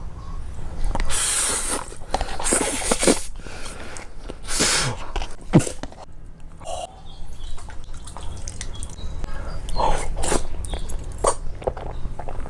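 Close-miked mukbang eating sounds: a string of short noisy bursts and sharp clicks from someone eating Chinese food, with short pauses in between.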